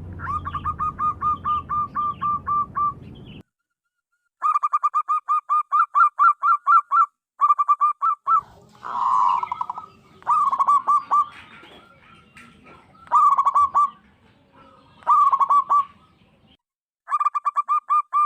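Zebra dove (perkutut) song: short phrases of quick, evenly repeated cooing notes. About seven phrases follow one another with brief gaps between them.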